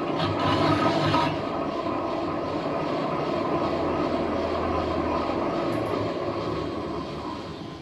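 Metal lathe running as it turns a steel truck wheel rim, a steady machine noise with a low hum that fades away near the end.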